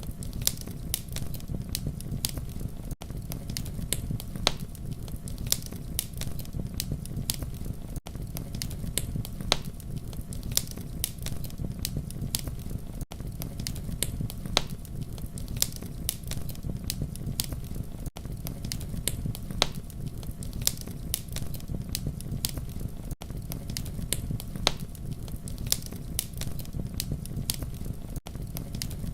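Campfire crackling: a steady low rumble of burning with frequent sharp pops and snaps throughout. There is a brief dropout in the sound about every five seconds.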